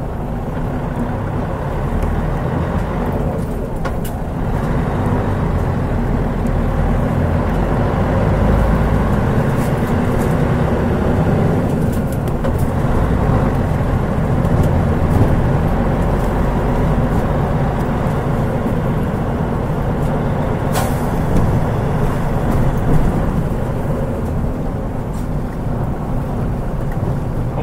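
Running sound of a Mitsubishi Fuso Aero Star city bus heard from inside the cabin, its 6M70 turbocharged six-cylinder diesel giving a steady low rumble under way. A short air hiss, typical of the air brakes, comes about three-quarters of the way through.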